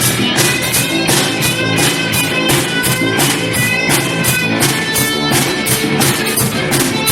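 Live band playing an instrumental passage: strummed guitar and a fiddle line over a steady beat.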